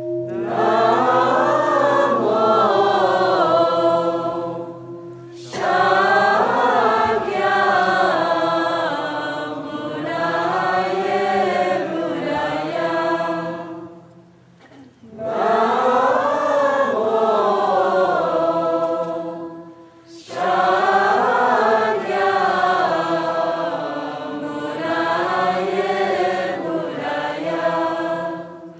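A group of voices chanting together in long, slow melodic phrases, with short pauses for breath between them.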